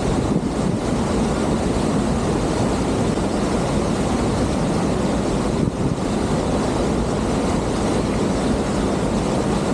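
A truck driving, with a steady low rumble of engine and road noise.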